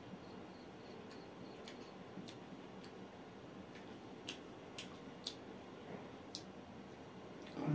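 Faint close-up chewing of dry grilled mutton sekuwa, with scattered small clicks. Right at the end comes one louder short sound.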